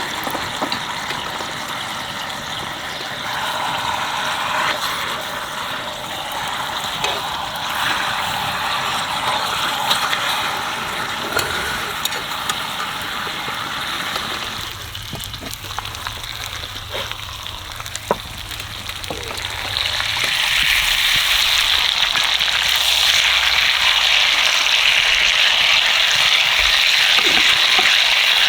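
Food sizzling in a pan over a campfire, a steady frying hiss with small pops, which swells to a louder, brighter sizzle about twenty seconds in.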